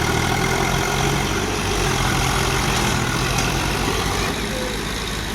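Tractor diesel engine running steadily, with a deep, even engine note.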